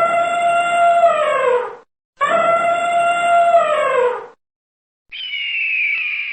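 A dog howling: the same long howl repeated twice more, each held level and then dropping in pitch at the end. About five seconds in, a shorter, higher-pitched cry starts.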